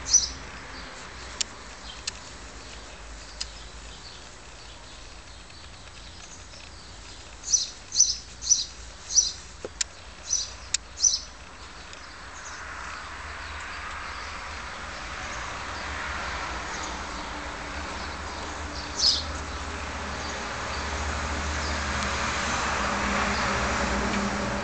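Bird chirping in short high calls: a quick run of about six chirps a few seconds in and a single chirp later, over a steady background noise that grows louder in the second half.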